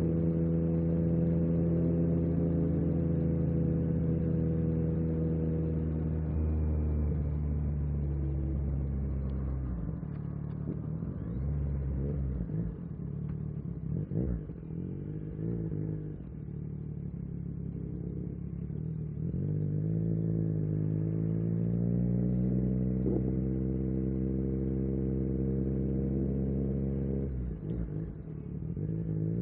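A 2022 Yamaha MT-09 SP's three-cylinder engine running under way, holding a steady note, then easing off with a few sharp pops in the middle. The pitch climbs again as it accelerates and falls away near the end.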